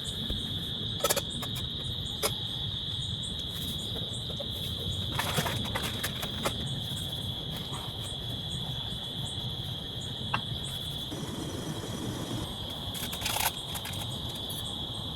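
Insects, crickets by the sound of it, trilling steadily at one high pitch over a low steady rush, with a few sharp ticks and taps scattered through.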